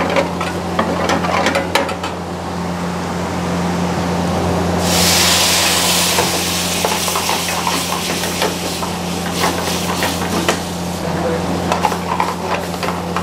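Dal tadka being cooked in a steel pan: the tempering of garlic, cumin, curry leaves and chilli powder crackles in the hot oil, then a loud sizzling hiss breaks out about five seconds in as the dal hits the oil and fades over the next few seconds. A steel ladle stirs and knocks against the pan, over a steady low hum.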